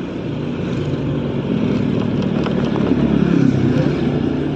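Motorcycle engine running under way, with road and wind noise; it grows a little louder about three seconds in, then eases.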